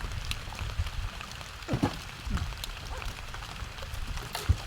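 Rain falling, with scattered ticks of drops over a steady low rumble, and two brief louder sweeping sounds about two seconds in.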